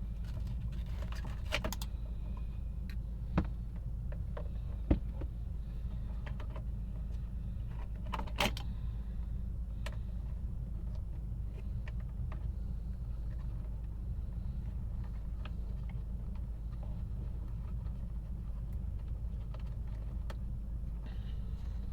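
Scattered light clicks and taps of small metal tools and parts being handled, over a steady low hum. Two sharper knocks come a few seconds in.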